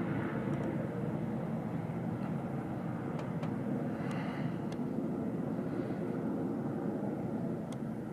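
Air Tractor 802 agricultural plane's turboprop engine and propeller running, a steady low rumble that eases slightly near the end, with a few faint ticks.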